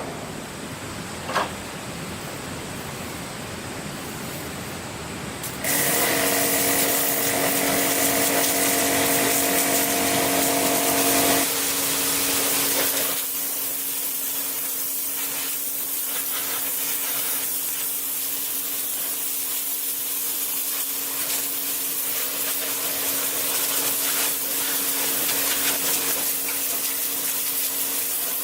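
A machine with a motor running steadily, a hiss with a steady hum, that starts suddenly about six seconds in and eases slightly a few seconds later.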